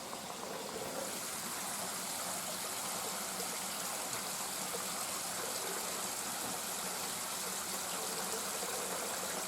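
Small stream running steadily over rocks, a continuous rush of water.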